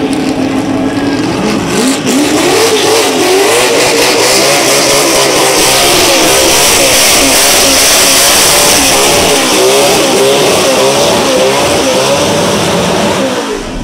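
Dodge NASCAR V8 in a Holden VH Commodore revving hard in a burnout, the revs wavering up and down over a dense hiss of spinning rear tyres. The engine holds a steady note for the first second or two, then climbs to high revs, and the revs fall away sharply near the end.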